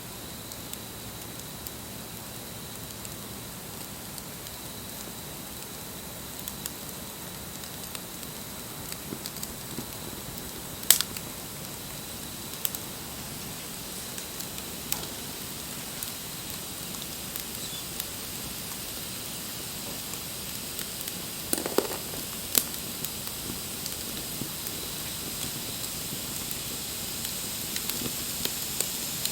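Wood campfire burning with a steady hiss and scattered crackles, with a couple of louder pops, one about a third of the way in and another about three quarters of the way through.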